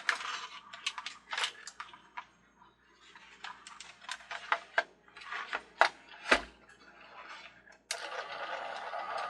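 Irregular plastic clicks and knocks as a Maisto Christmas carousel is handled. About eight seconds in, the carousel starts running with a steady sound. It is still rubbing at the center hub, where a loose horse turns and catches on its neighbour.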